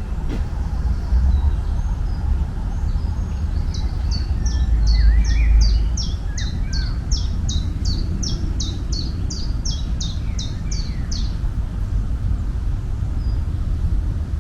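A songbird singing a long run of about twenty repeated high notes, each falling in pitch, at nearly three a second for about seven seconds. Under it runs a steady low rumble.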